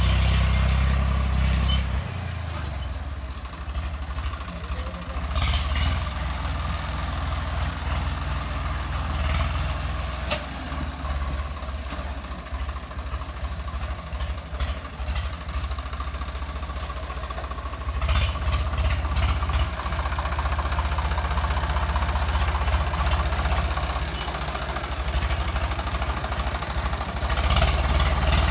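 Swaraj 855 FE tractor's diesel engine running, a steady low rumble with a few knocks. It drops in level about two seconds in and grows louder again about eighteen seconds in and near the end.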